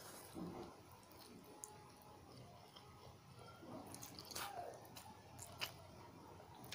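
A person chewing a mouthful of pancit canton instant noodles, soft and wet, with a few sharp mouth clicks around four to five and a half seconds in.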